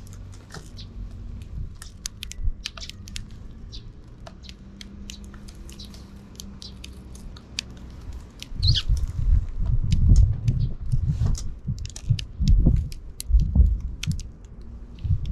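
Sparrows feeding close by: a rapid scatter of sharp pecking and crunching clicks with short chirps, and from about halfway through, irregular heavy low thumps that are the loudest sounds.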